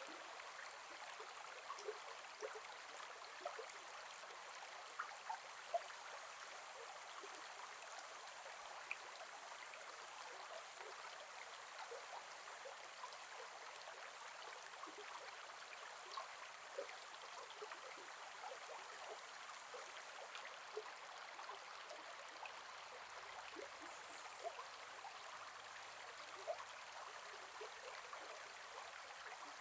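Gentle forest river flowing: a steady, soft rush of water, dotted with many small gurgles and splashes.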